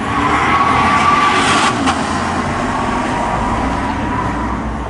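Corvette V8 running loudly as the car drives past, a steady drone with a single sharp pop about two seconds in.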